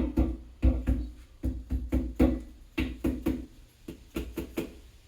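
Hammer tapping a part into seat in the engine block: a run of about fifteen light, irregularly spaced knocks, each with a short ring.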